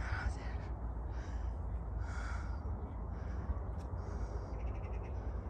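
Bird calls, several short ones in turn, over a steady low rumble.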